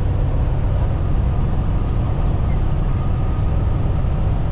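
Freightliner semi truck under way: a steady low rumble of engine and road noise heard from inside the cab.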